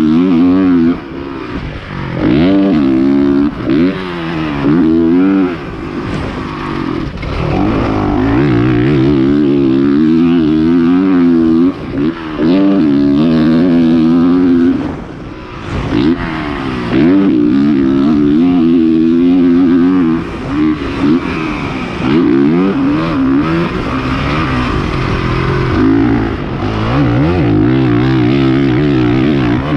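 Honda CRF450R's 450cc single-cylinder four-stroke engine run hard on a fast motocross lap: it revs up and down as the throttle is worked, with short drops where the throttle is shut off, about a second in and again midway.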